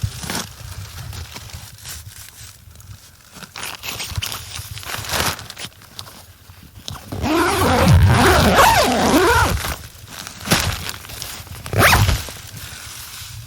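Tent door zipper being pulled and the tent's fabric rustling, loudest for a couple of seconds in the middle, with a few short knocks and scrapes around it.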